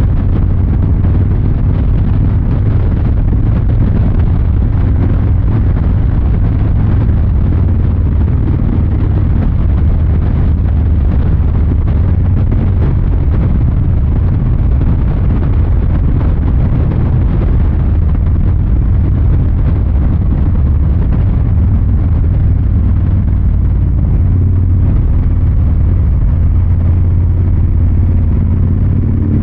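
Exhaust of a 2023 Harley-Davidson Fat Boy 114's Milwaukee-Eight V-twin running steadily under a rider, a loud, deep note.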